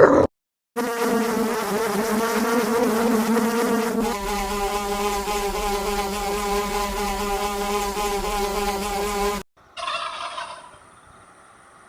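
An insect buzzing steadily, its pitch dropping slightly partway through, then cutting off suddenly.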